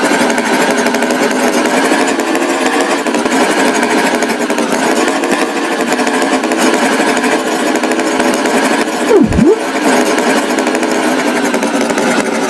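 Cartoon tractor engine sound effect, a rough steady running. About nine seconds in, a quick tone swoops down in pitch and back up.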